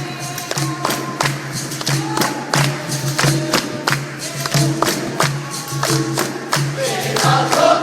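Live capoeira roda music: a steady, quick rhythm of pandeiro strikes over a pulsing low tone, with a chorus of voices starting to sing near the end.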